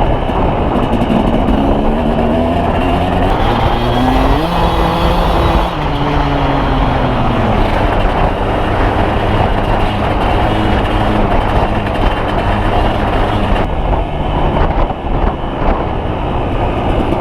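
Dirt bike engine running while under way, its pitch climbing for a couple of seconds about a quarter of the way in, then falling away.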